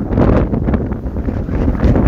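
Strong wind blowing in gusts over a deep, steady rumble.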